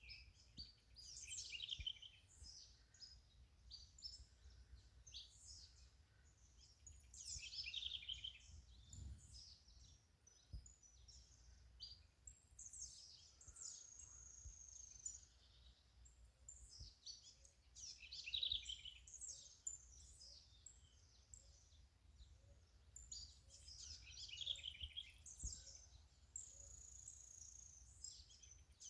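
Birds singing outdoors in short phrases of quick, falling notes that come back about every five to six seconds, with a couple of held high whistles in between. The song is faint over a steady low rumble.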